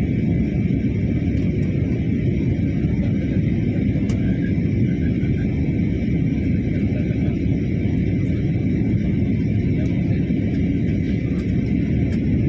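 Steady low rumble of engine and airflow noise inside a jet airliner's cabin in flight, with a faint steady high whine above it.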